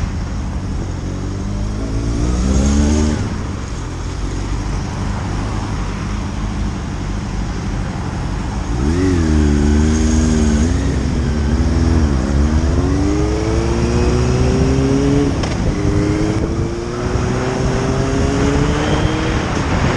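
Motorcycle engine accelerating, its pitch climbing, dropping back at each gear change and climbing again several times, over steady rushing road noise.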